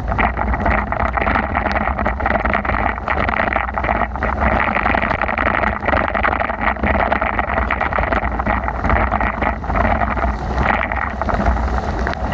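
Steady wind rush buffeting the microphone of a moving bicycle in heavy rain, over a low rumble, with many small ticks throughout.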